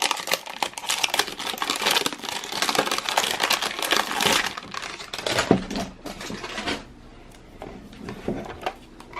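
Crinkly plastic wrapping on a toy surprise ball being torn and crumpled open by hand: dense crackling and rustling for about five seconds, then thinning to a few scattered crinkles.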